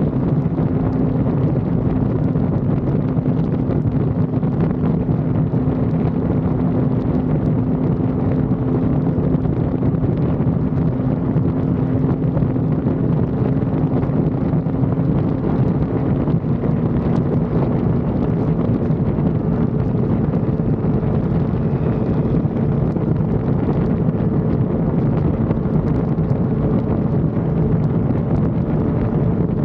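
Sport motorcycle engine holding a steady cruising speed, with heavy wind rushing over the microphone. The engine note shifts slightly about halfway through.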